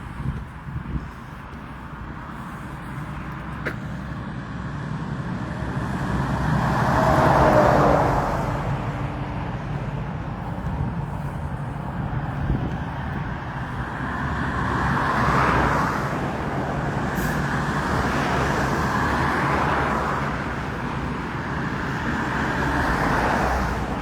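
Road traffic: cars passing one after another, each swelling up and fading away as it goes by, over a steady low rumble. The loudest pass comes about a third of the way in, with a faint falling pitch as it goes past.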